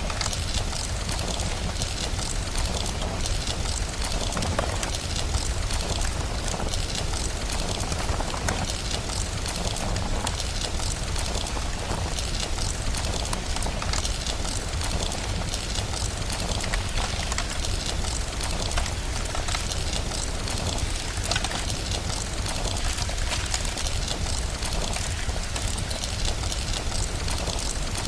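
Steady rain mixed with a crackling wood fire, its small sharp pops scattered irregularly over the hiss, with a continuous low rumble underneath.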